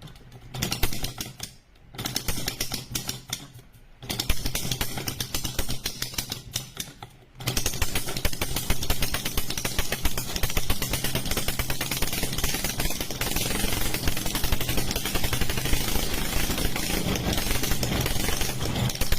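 Homemade model engine running with a rapid, even clatter of clicks. It starts and stops in short runs a few times, then runs on steadily from about seven seconds in.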